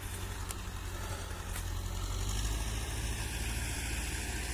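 Tractor engine running steadily as it mows with a disc mower, a low even drone. Two faint clicks about a second apart near the start.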